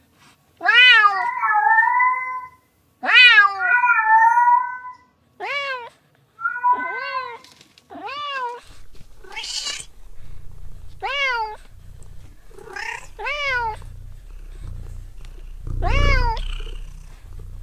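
Domestic cat meowing again and again: about nine separate calls, each rising and then falling in pitch, some trailing into a longer second part. A low hum runs underneath in the second half.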